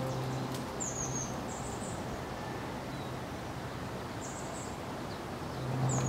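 Outdoor ambience with a steady hiss and a few short, high-pitched bird chirps, heard three or four times. Background music fades out about a second in and comes back near the end.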